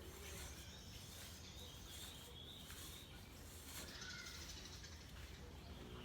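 Quiet background with a steady low hum and a few faint, short bird chirps.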